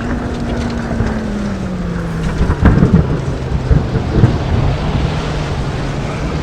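Steady road and engine noise from a vehicle driving through a storm, with a hum that drops in pitch about two seconds in. A burst of loud, low rumbling thumps follows, lasting about two seconds.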